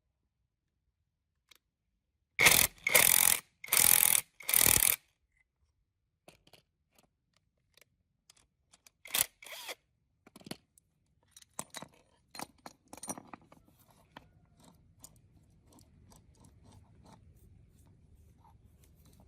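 Four harsh scraping strokes of a hand tool on metal, about two seconds in, each about half a second long. Then scattered light clicks and taps of metal parts being handled, with a faint low hum in the background near the end.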